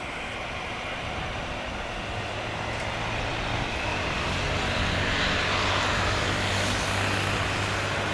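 Airbus A320 jet engines running, a steady rushing whine over a low hum that grows somewhat louder toward the middle and end.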